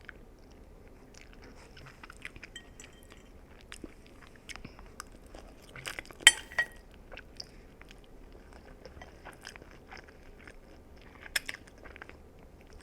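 Close-up chewing of noodles, with many small wet mouth clicks. A sharp, ringing clink of a utensil against a dish about six seconds in is the loudest sound, and a second clink comes near the end.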